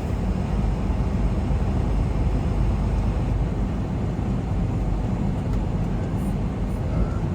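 Semi truck's diesel engine running steadily, heard from inside the cab as an even low rumble.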